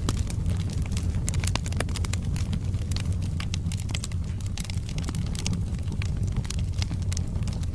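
Wood fire burning in a fireplace: a steady low rumble of flames with many irregular sharp crackles and pops from the logs.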